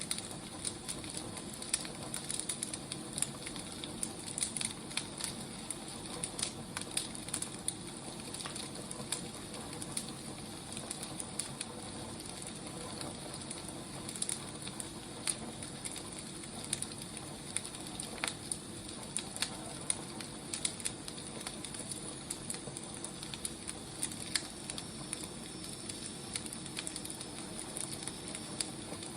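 Wood fire burning, a steady hiss with frequent irregular crackles and pops.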